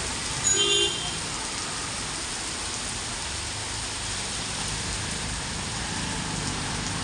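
Steady rain falling. About half a second in, a brief, loud, high-pitched tone cuts through it for about half a second.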